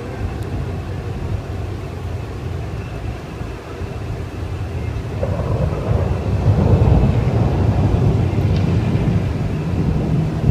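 Thunder rumbling, swelling louder about halfway through.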